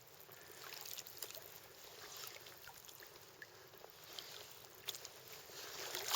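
Faint splashing and lapping of river water, with small scattered ticks, growing louder near the end.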